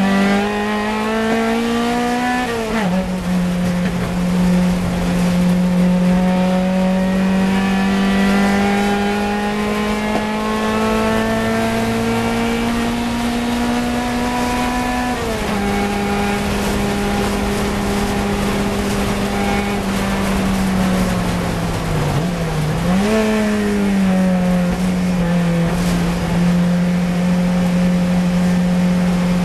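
Fiat 124 Coupe race car's twin-cam four-cylinder engine under hard acceleration, heard from on board. Its pitch climbs steadily and falls suddenly at two upshifts, one about three seconds in and one about halfway. About three-quarters of the way through, as the car brakes for a corner, the pitch dips and then jumps up sharply at a downshift before settling again.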